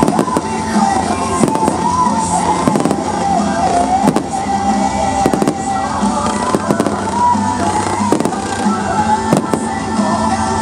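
Fireworks bursting in a display, sharp bangs about every second or so, over music playing throughout with a wavering melody.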